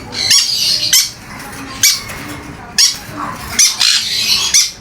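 Pet bird squawking harshly, about six rough calls in quick succession.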